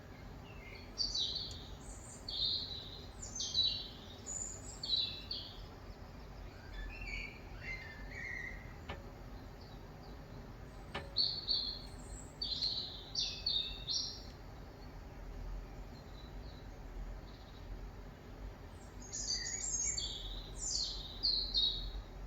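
Small birds chirping in bouts of quick, high notes, with pauses of several seconds between the bouts. Two faint clicks near the middle.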